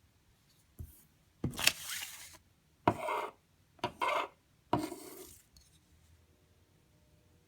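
Steel knife blade making four separate scraping strokes about a second apart, each starting with a sharp contact click and trailing off in a rasping hiss, after one small click just before.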